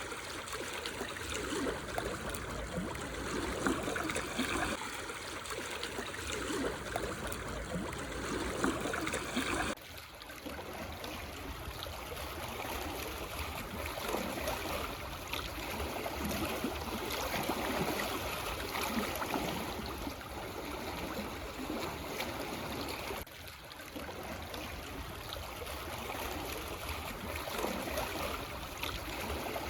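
Small waves lapping and splashing over black stones on a shoreline, a steady wash of water. The sound shifts abruptly twice, about ten seconds in and again about two-thirds of the way through.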